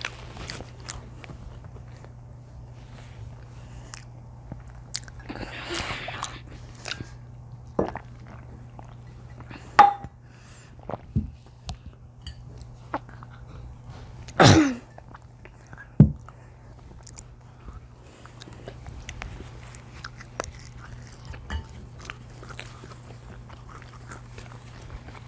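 Close-miked chewing and biting of pizza and cheese sticks, with wet mouth clicks and smacks scattered throughout and a few louder sharp sounds around a third and halfway through, over a steady low hum.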